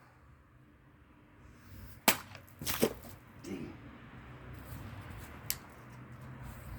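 A knife blade slashing through a bottle: one sharp crack about two seconds in, then a quick cluster of smaller cracks and a later single click as the bottle is hit and falls.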